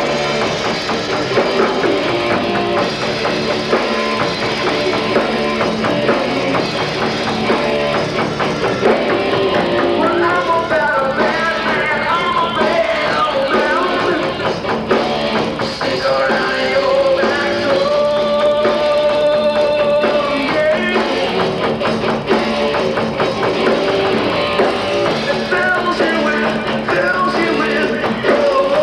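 Live rock band playing: drum kit, electric guitar and bass.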